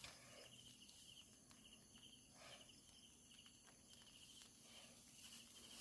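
Faint insect chirping: short pulsed trills in one high pitch, repeating about once a second over a faint night-time hiss.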